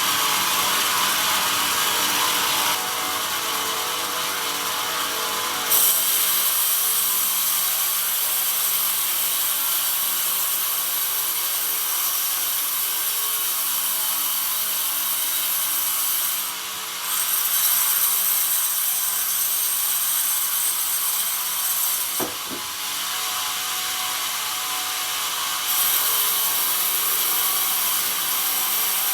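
Sawmill band saw cutting through pine with a steady, loud hissing rasp of the blade in the wood over the machine's hum. The sound briefly drops away and changes character a few times, around 17 s and 22 s.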